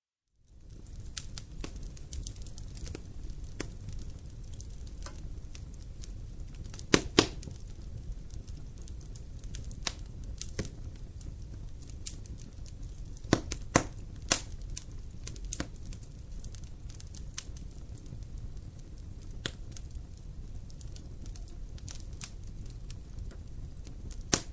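Wood fire crackling in a fireplace: a steady low rumble of flames with scattered sharp pops, the loudest about seven seconds in and again around thirteen to fourteen seconds. It starts abruptly out of silence about half a second in.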